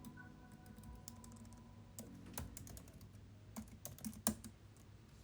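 Faint, irregular keystrokes on a computer keyboard, a few scattered clicks a second.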